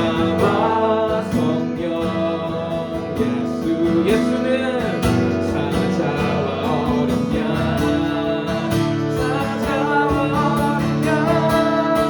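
Worship music: an acoustic guitar strummed steadily under singing.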